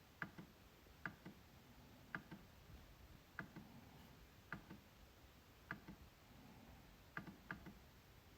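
MacBook trackpad being clicked: sharp single clicks about once a second at a slightly uneven pace, with two in quick succession near the end.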